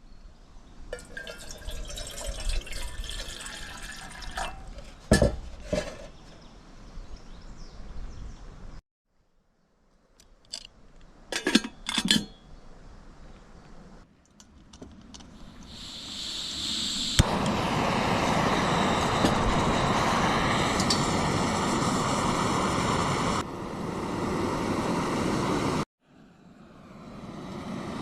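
Water being poured into the water reservoir of a Staresso portable espresso machine, with knocks and clicks from handling its parts, in short clips with hard cuts. A loud steady rushing sound fills the second half and cuts off abruptly near the end.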